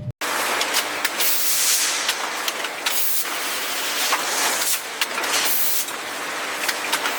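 Steady hissing spray noise, with scattered sharp clicks and knocks through it.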